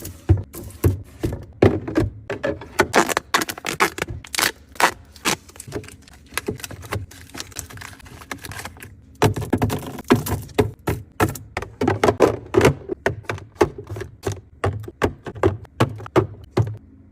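Packaged items and containers being handled and set down while a fridge is restocked: rapid, irregular clicks, taps, knocks and rattles. The clatter thins out a little before picking up sharply again about nine seconds in.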